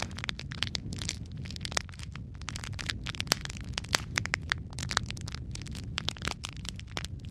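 Wood fire crackling in a fireplace: a steady low rumble of flames with frequent sharp pops and snaps, some louder than others.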